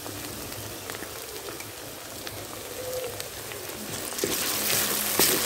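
Garlic-ginger paste and browned onions sizzling in hot ghee in a clay pot, a fine crackling hiss that grows louder about four seconds in as a wooden spoon starts stirring.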